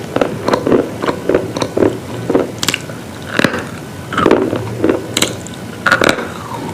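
A person biting and chewing hard, brittle pieces, with repeated crisp crunches, several a second and unevenly spaced.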